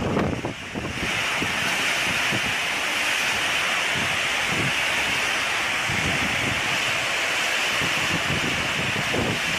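Steady rushing noise of a storm, wind and water, with low rumbling of wind on the microphone. It settles into an even roar about a second in.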